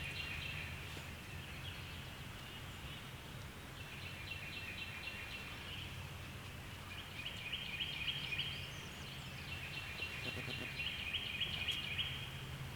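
Outdoor ambience in which a small bird's high, rapid trill repeats about four times, a few seconds apart, over a steady low hum.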